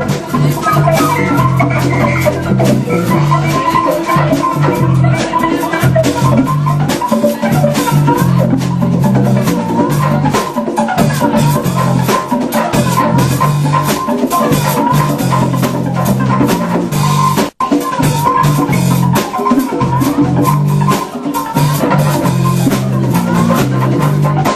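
Live jam band playing an instrumental improvised passage, with drum kit, guitar and a stepping bass line. The sound drops out for an instant about two-thirds of the way through.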